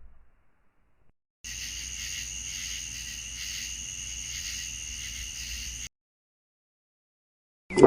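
An insect's steady high trill, starting about a second and a half in and cutting off suddenly about six seconds in.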